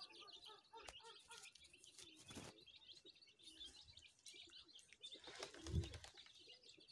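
Faint chirping of birds, with a rustle about two and a half seconds in and a soft low thump near the end.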